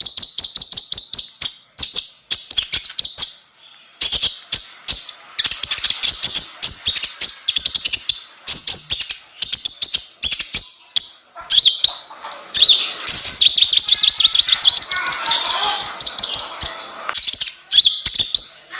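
Kolibri ninja (konin) sunbird singing vigorously: long runs of rapid, high-pitched chittering twitters and sharp ticks in phrases of a few seconds each, broken by short pauses.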